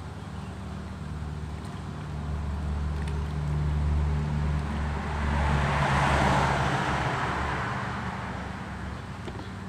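A motor vehicle driving past, its engine and road noise swelling to a peak about six seconds in and then fading away.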